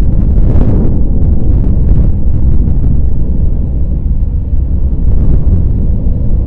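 Loud, steady low rumble that keeps wavering in level, with no clear pitch or rhythm.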